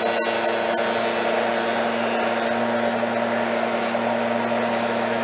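Electric buffer motor running steadily while a knife edge is buffed, with a few short hissing passes of the blade against the buff.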